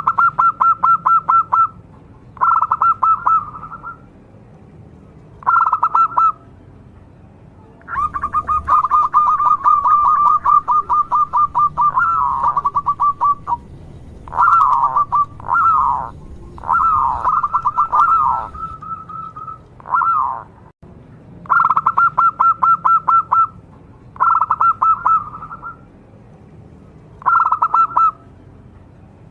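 Local perkutut (zebra dove) singing: about ten short phrases of fast, pulsing coos with pauses between them. About eight seconds in comes one longer run, and a few phrases slide downward in pitch. The calls are from an excited, vocal male, the kind used to make other perkutut answer.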